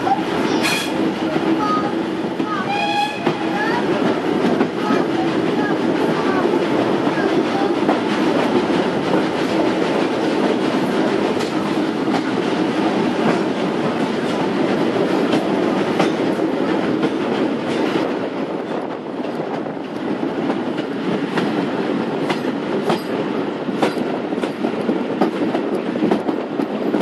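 Heritage passenger carriage running along the track, heard at an open window: a steady rolling rumble of the wheels with scattered clicks over the rail joints.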